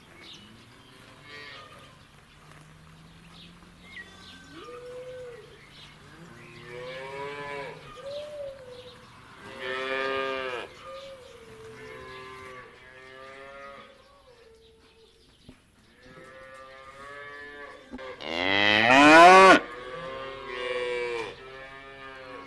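Holstein dairy cattle mooing again and again, several calls following one another and growing louder. The loudest is a moo that rises in pitch about three-quarters of the way through.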